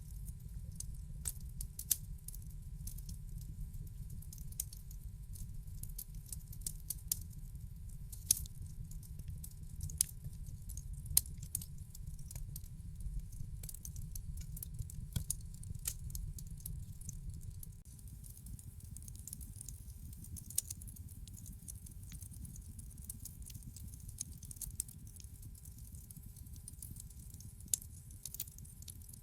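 Wood fire crackling in a fireplace: a steady low rumble with sharp pops and snaps scattered irregularly throughout, a few louder pops near the middle. The rumble eases a little past halfway.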